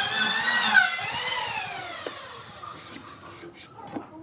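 Handheld power tool, drill-like, running with its whine wavering in pitch as it works the wood. About a second in it is released and winds down, the whine falling and fading over a couple of seconds, followed by a few light clicks.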